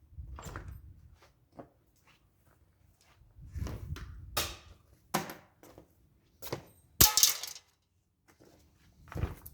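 Hand tools and metal parts clicking and knocking while working on a lawn tractor's chassis, in scattered single strokes with pauses between them. The loudest is one sharp metallic knock with a brief ring about seven seconds in.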